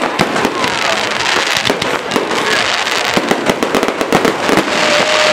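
Aerial fireworks shells bursting in rapid succession, a dense stream of overlapping bangs and crackles with no pause.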